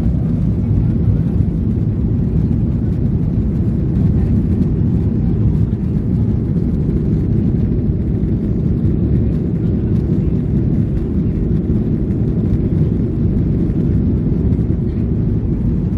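Airliner cabin noise: the steady low rumble of the jet engines and airflow, heard from inside the passenger cabin.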